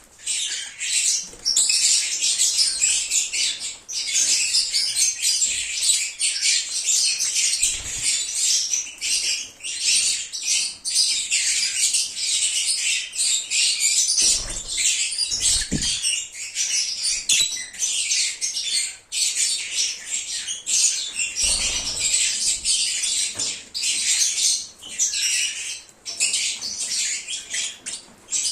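A flock of lovebirds chirping and squawking continuously in rapid, high-pitched bursts, with a few soft low thumps now and then.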